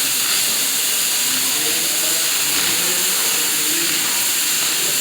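Steady, loud hiss of a metal-cutting torch in a welding shop.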